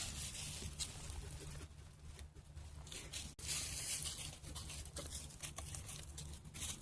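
A dog digging and nosing about at a hole in the forest floor: irregular scrapes, crackles and rustles of dirt and dry leaves.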